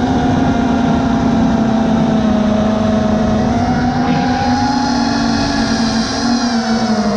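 FPV racing quadcopter's brushless motors and propellers whining in flight, the pitch wavering slightly as the throttle moves, over a low rushing noise.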